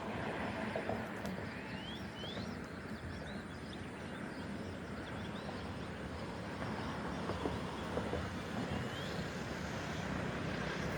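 Steady outdoor background noise with a few short rising bird chirps, a couple about two seconds in and one more near the end.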